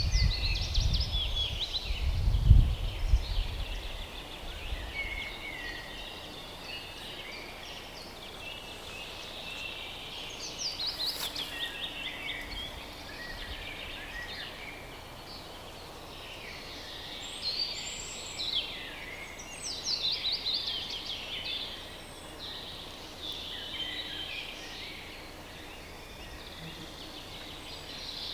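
Several small songbirds singing at once, with overlapping quick high trills and down-slurred phrases throughout. A couple of low rumbles in the first few seconds.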